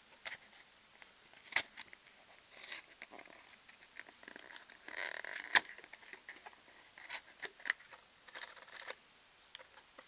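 Trading cards and card packs being handled: scattered light clicks and taps, with a short stretch of rustling wrapper about five seconds in that ends in a sharp click.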